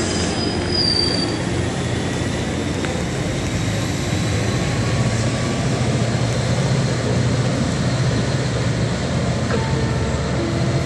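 Passenger train running on the rails: a steady rumble of wheels and a low, even hum.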